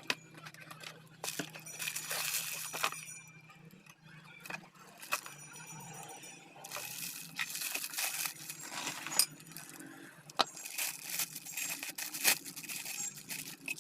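Metal parts and tools being handled during a repair: scattered clinks and taps, with bouts of scraping or rubbing about a second in, around seven seconds in and again near the end.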